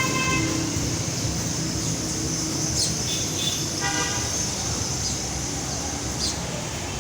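Two short horn toots about four seconds apart, over a steady outdoor background hiss.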